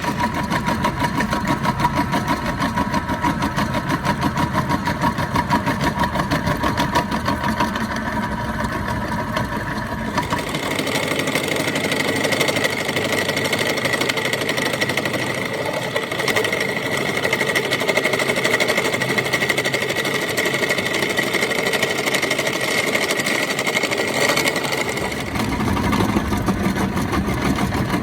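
Workshop machinery running steadily with a fast, even rattle and a steady whine. The sound changes abruptly about ten seconds in, the whine jumping higher and the low rumble dropping away, and changes again near the end.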